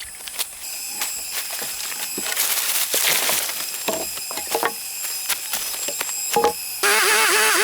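Scattered clicks and knocks between chainsaw cuts, with a short hiss about three seconds in. Near the end the chainsaw's engine abruptly starts running again, its pitch wavering.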